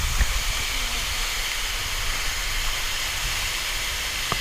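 Waterfall's falling water, a steady, even rushing hiss.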